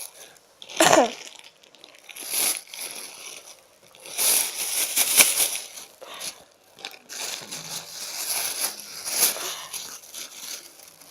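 Plastic bag crinkling and rustling in repeated bursts as squishy toys are packed into it.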